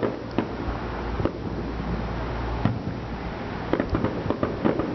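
Aerial firework shells bursting: a few sharp bangs spaced through the first half, then a quick run of bangs and crackles near the end.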